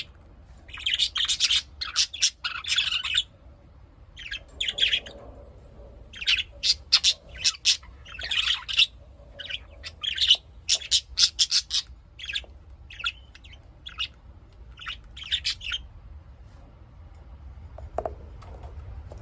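A flock of small caged parrots chirping and chattering in quick bursts of sharp, high calls, thinning out over the last few seconds.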